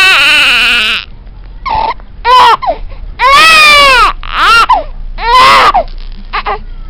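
Baby crying: a series of loud wails, some about a second long and some short, with brief gaps for breath between them.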